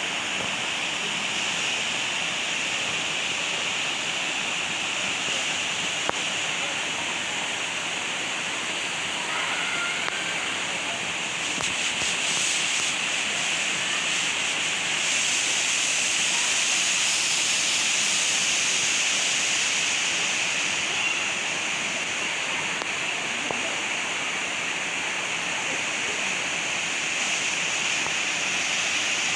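Steady rushing of falling water in a forest, with a constant high-pitched drone on top, a little louder around the middle.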